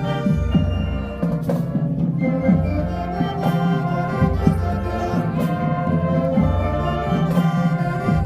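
A high school marching band playing: brass holding chords over a low bass line, with drum hits about once a second.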